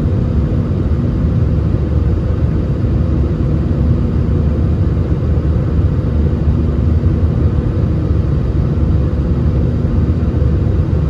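Airbus A320 jet engines and airflow making a steady low rumble, with a faint steady hum on top.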